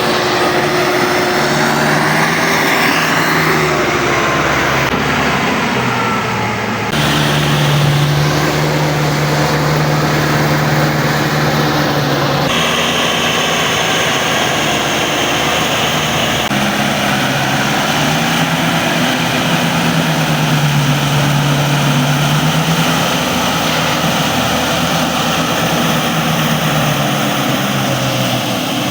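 A 70 HP FM World tractor's diesel engine running steadily under load while working a flooded paddy field. The sound changes abruptly a few times as shots are cut together.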